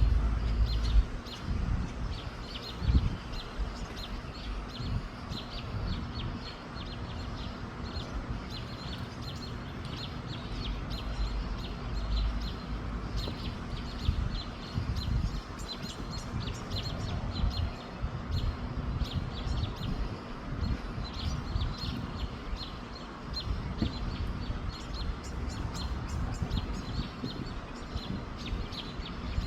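Small birds chirping over and over in quick short notes, with wind gusting on the microphone as a low uneven rumble.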